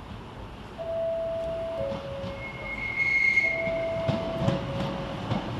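Class 150 diesel multiple unit sounding its two-tone horn twice, a high note then a lower one each time, as it approaches the platform. A brief high-pitched wheel squeal comes between the two blasts, and the train's low rumble grows in the second half.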